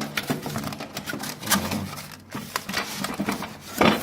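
Irregular clicks, taps and rustles of packaging and parts being handled, with a louder knock near the end.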